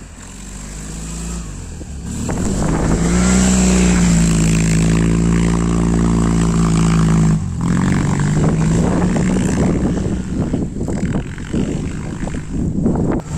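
Homemade quad bike's two-cylinder Oka car engine revving up and holding high revs for several seconds, then dropping off sharply about seven seconds in and running unevenly, its revs rising and falling.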